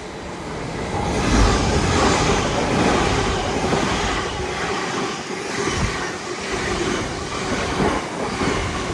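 LNER Azuma high-speed trains running through the station, a loud rushing rumble of wheels on rail that builds over the first second or so and holds, with a regular beat as the wheels pass.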